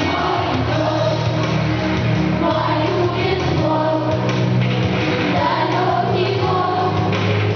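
A song: voices singing a melody over a steady instrumental backing.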